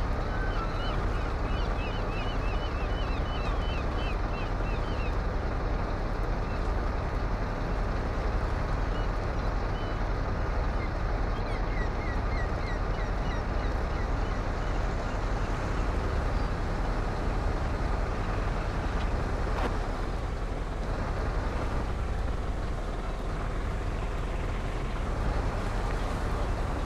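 Truck driving: steady engine and road rumble, with a run of faint quick high chirps in the first few seconds and again briefly near the middle.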